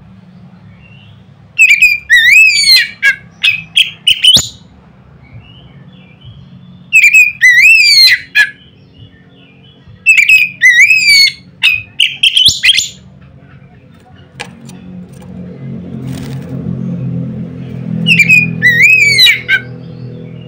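Oriental magpie-robin (kacer) singing loud, sharp whistled phrases in bursts of one to three seconds with short pauses between them. A low hum runs underneath and grows louder over the last few seconds.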